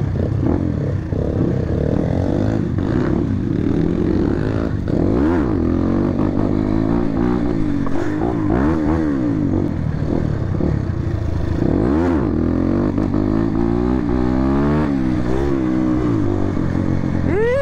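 Motorcycle engine running under way, its pitch rising and falling several times as the rider opens and closes the throttle, with a steady low rumble underneath.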